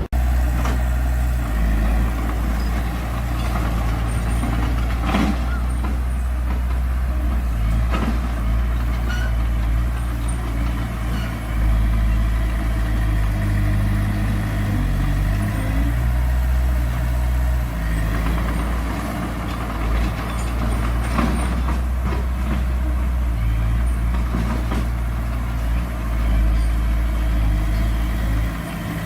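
Heavy diesel engine of earthmoving machinery running steadily, its pitch shifting slightly as the load changes, with a few sharp knocks now and then.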